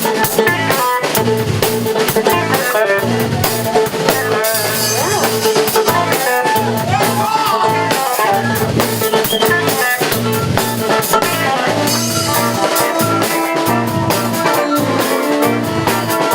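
Live rock band playing an instrumental passage with electric guitar, bass and drum kit keeping a steady beat.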